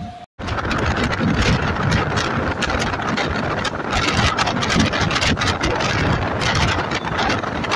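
Loud running noise of a moving MEMU electric train: a steady rumble with rapid rattling and clatter. It starts abruptly after a split-second dropout.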